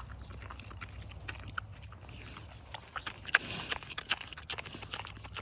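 An animal eating toast: irregular crunching clicks of its chewing, over a steady low hum.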